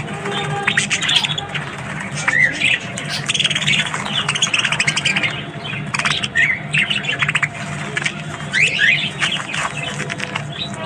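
A group of budgerigars chattering: many overlapping chirps, squawks and quick warbling glides without a break, over a steady low hum.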